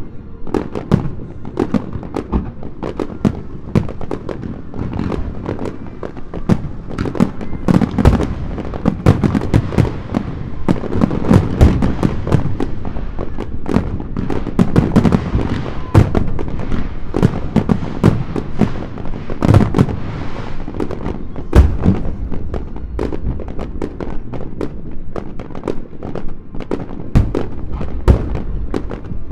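Large aerial fireworks bursting in rapid, overlapping succession: a continuous run of deep booms with sharp cracks and crackle between them, a few bursts standing out louder than the rest.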